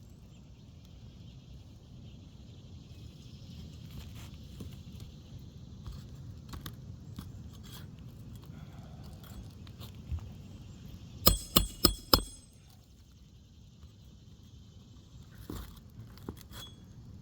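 A hammer striking roofing nails about five times in quick succession, about eleven seconds in, each hit sharp with a short metallic ring, as a shingle row is fastened down.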